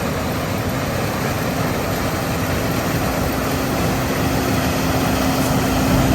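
Farm tractor engine running steadily under load, with a constant hum through the noise of the machinery.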